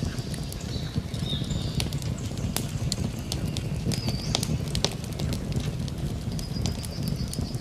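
Campfire crackling: many sharp pops and snaps scattered over a steady low rumble of the flames. A few short, high bird calls come and go in the background.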